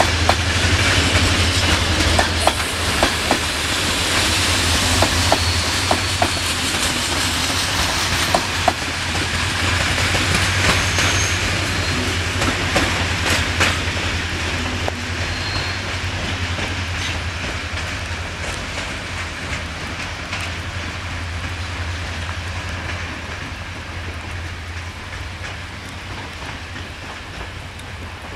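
Passenger train carriages rolling past on jointed track, their wheels clicking over the rail joints, then fading away as the train leaves. A steady low hum runs underneath.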